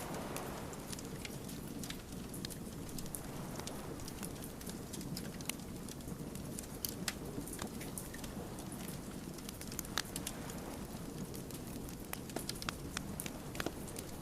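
Wood fire burning, the logs crackling with frequent irregular sharp pops over a steady low rush.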